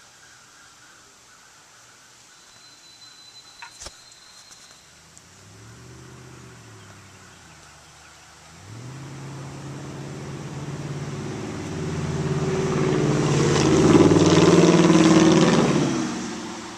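Unmuffled exhaust of a 2002 Ford F150's 4.6-litre V8 running through true dual pipes. It is faint at first, after a single sharp click about four seconds in, then grows steadily louder from about halfway, is loudest near the end, and drops away quickly at the close.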